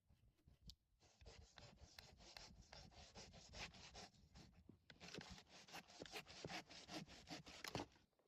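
Faint, dense scratching and rubbing of wood, possibly firewood being handled. It starts about a second in, dips briefly midway and stops suddenly near the end.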